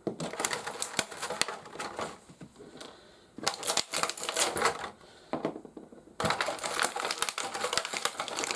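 Plastic packaging and small plastic toy parts being handled: a rapid run of crinkling and clicking, with short lulls about two to three seconds in and just before six seconds.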